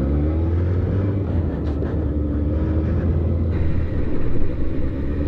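Suzuki motorcycle engine pulling away and accelerating, its note rising in pitch in the first second over a steady low rumble, during a run-up to about 35 km/h.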